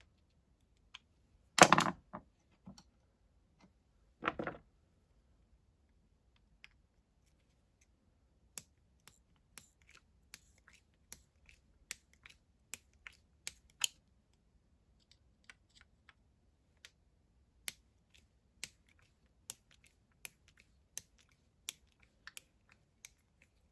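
Small hand tools working a tight part loose from a motorbike carburettor. There is a loud knock about two seconds in and a shorter one about two seconds later, then a long run of sharp separate clicks, roughly one or two a second.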